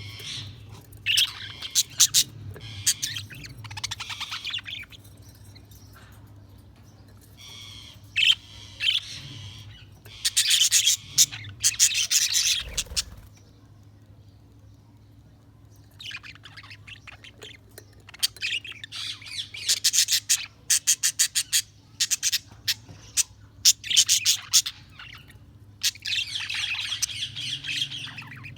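Budgerigars chirping and chattering in bouts of rapid warbling and sharp squawks, with short quiet pauses between bouts.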